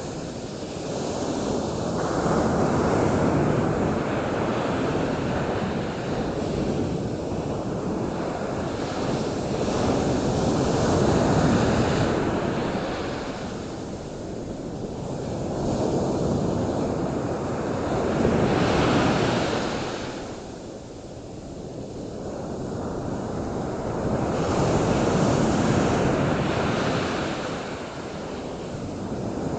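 Ocean surf: waves washing in and breaking, a continuous rush that swells and fades every several seconds.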